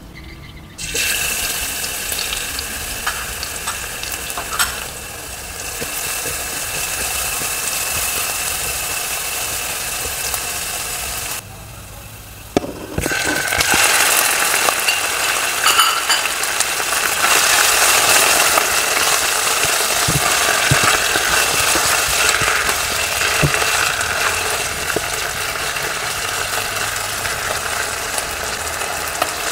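Hot oil sizzling in a nonstick electric pan with chopped aromatics, then louder frying from about 13 s in as raw chicken pieces hit the oil. Near the end there are scattered clicks and scrapes as a silicone spatula stirs them.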